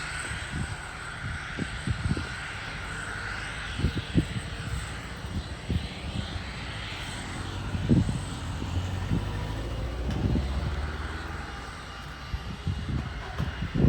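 Boeing 747-400F freighter's jet engines running with a steady whine and rushing noise, some tones sliding slowly in pitch. Wind buffets the microphone in low thumps now and then.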